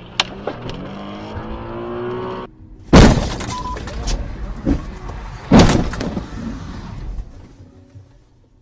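Car engine revving up, its pitch rising, then after a cut two loud crashing impacts about two and a half seconds apart with smaller knocks between them, as in a road collision heard from a dashcam.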